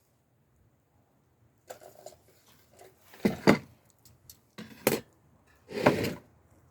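Handling noises: a few short rustles and knocks at uneven intervals, about a second apart, the loudest three in the second half.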